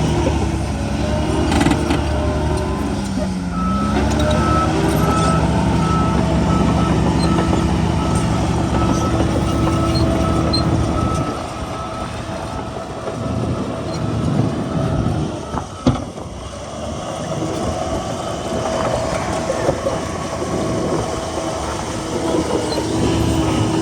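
Heavy diesel earthmoving machinery running, a bulldozer and dump trucks. A reversing alarm beeps about twice a second from about four to eleven seconds in. The engine note drops partway through, and there is one sharp clank about sixteen seconds in.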